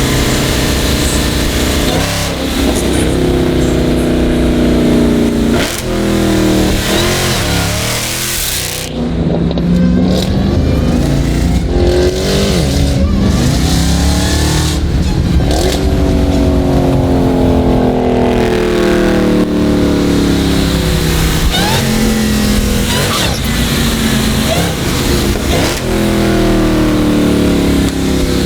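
Supercharged 6.2-litre HEMI V8 of a Dodge Charger Hellcat Redeye Jailbreak, running loud through an aftermarket exhaust under hard acceleration. The engine note rises in pitch repeatedly and drops back at each gear change.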